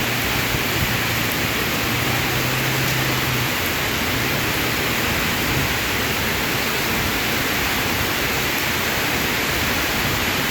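Heavy rain falling in a downpour, a steady dense hiss. A low steady hum underneath stops about three and a half seconds in.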